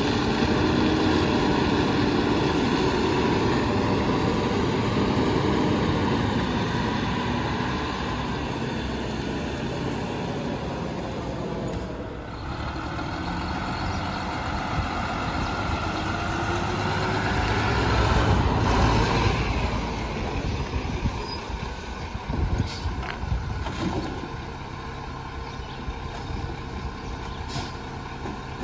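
Mack MRU garbage truck revving its engine to drive the McNeilus rear loader's hydraulic packer as it compacts bulk trash. The pitch rises and falls through the packing cycle, climbs to a peak, then drops back toward idle, with a few sharp knocks near the end.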